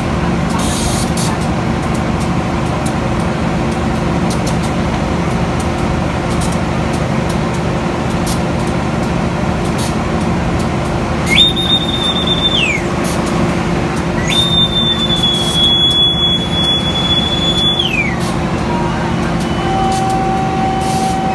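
Train running with a steady rumble and hum. A high, shrill whistle sounds twice, a short blast about eleven seconds in and a longer one about three seconds later. A steady lower tone comes in near the end.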